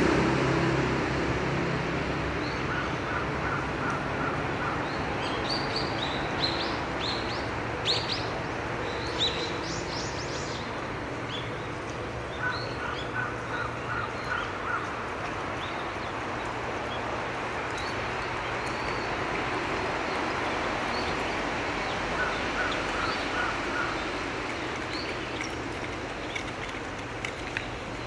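Wild birds calling over a steady background hiss: scattered short high chirps, thickest about a quarter of the way in, and three spells of quick repeated lower notes.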